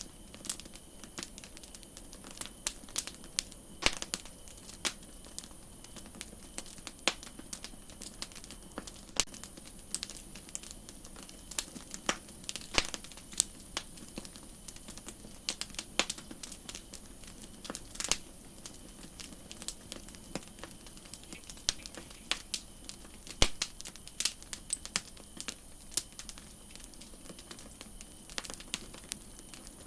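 Campfire crackling: irregular sharp pops and snaps over a steady hiss. The hiss grows louder for a stretch in the middle.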